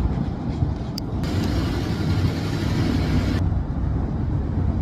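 Aerial fireworks bursting overhead: a steady heavy rumble of booms, with a brighter crackling hiss from about a second in until past the middle.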